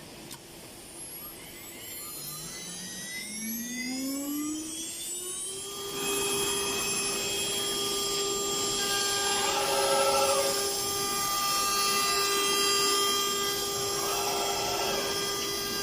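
A CNC router's electric spindle spinning up: its whine rises in pitch over about four seconds, then holds a steady high whine at full speed, with two brief louder swells.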